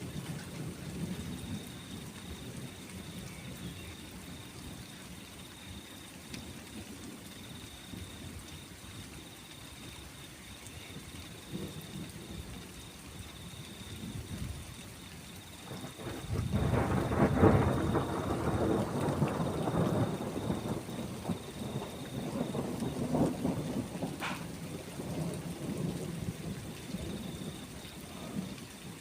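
Steady rain with a long roll of thunder a little past halfway, a deep rumble that swells up suddenly, peaks, then rolls on in weaker swells for several seconds.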